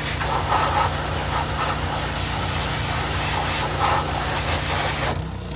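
Hot water pressure washer spraying: a steady hiss from the high-pressure jet over the low, even running of the washer's engine. The spray cuts off about five seconds in, leaving the engine running.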